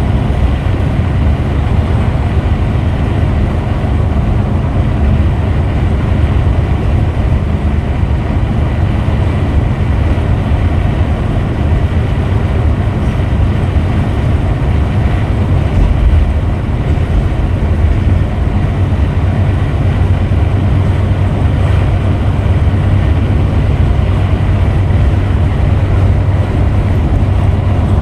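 Steady low rumble of a Scania Metrolink multi-axle coach on the move: engine and road noise, even throughout.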